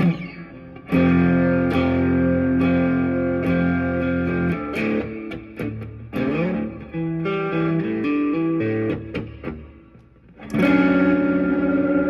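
Electric guitar played through effects: sustained chords and shifting single notes, with a few sliding pitches. Near the end it fades almost away, then a loud chord rings out.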